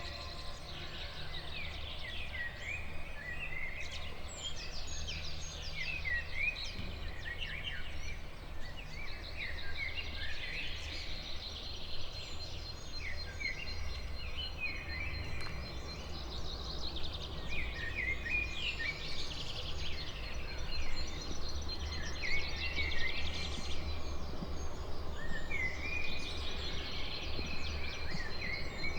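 Songbirds singing, with short chirping phrases repeating every few seconds, over a steady low rumble.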